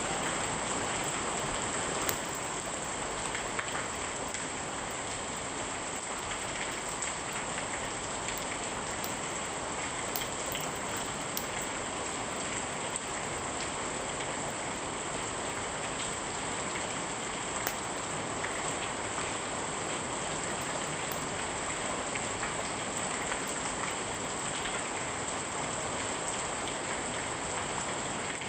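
Steady, even rain falling, with a few sharp pops about two seconds in and again later on.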